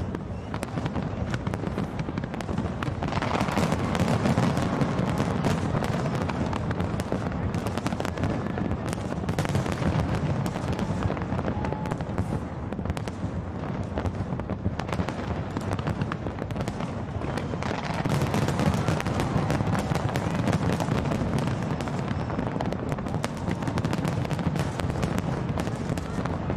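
Fireworks display: aerial shells bursting in a dense, unbroken run of bangs and crackles, swelling twice.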